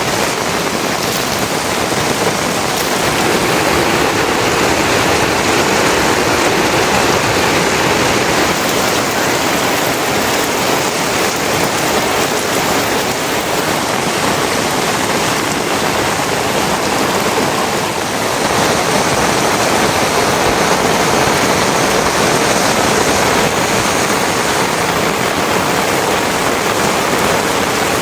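Steady heavy rain falling, a loud even hiss of drops that barely changes.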